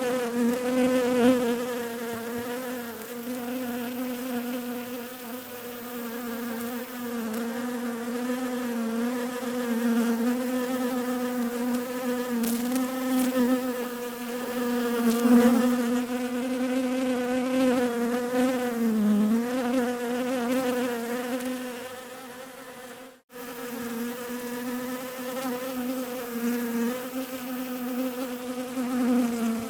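Bees buzzing in a steady drone whose pitch wavers slightly up and down. It cuts out abruptly for an instant about 23 seconds in, then resumes.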